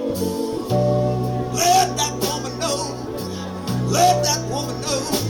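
Live band music: a blues band playing with bass and drums. Cymbals ring throughout, and melody notes bend in pitch twice.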